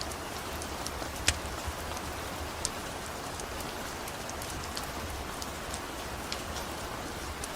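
Steady rain mixed with the crackle of a wood-burning fire: a constant hiss with many small sharp pops scattered through it, the loudest about a second and a half in.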